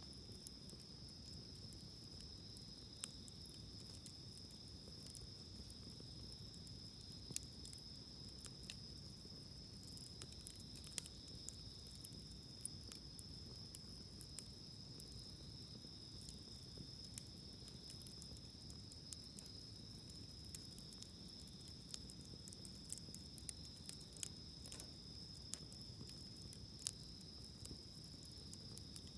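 Wood campfire crackling with sparse sharp pops, more frequent toward the end, over a steady high-pitched trilling of insects.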